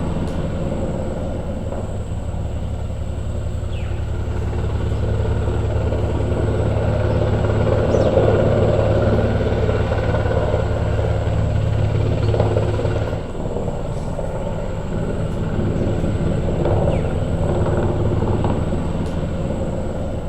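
Police helicopter hovering overhead, its rotor beating steadily; the sound drops a little about thirteen seconds in.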